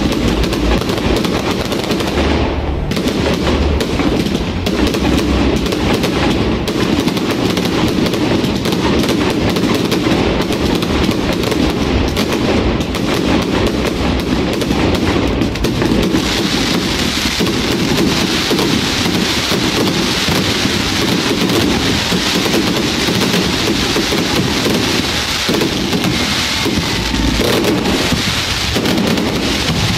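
Fireworks going off in a continuous rapid barrage of bangs and crackling, with the crackling growing denser about halfway through.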